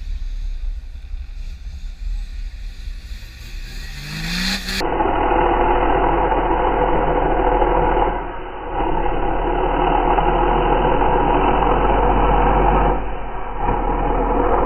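Off-road 4x4's engine revving as it climbs over a dirt mound, the pitch rising near the fourth second. About five seconds in the sound turns deep and drawn out, slowed down with slow-motion footage of the wheels churning dirt.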